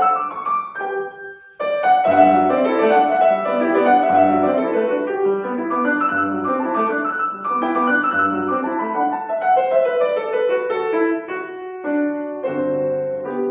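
Piano playing a classical piece: a busy run of notes over bass notes struck about every two seconds, with a short break just after a second in, settling into held chords near the end.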